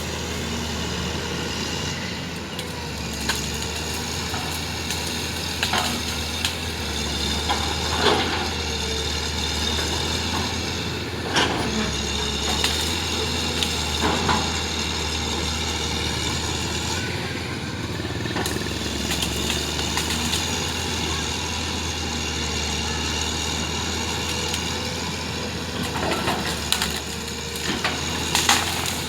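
Heavy diesel engine running steadily, with scattered knocks and clanks throughout.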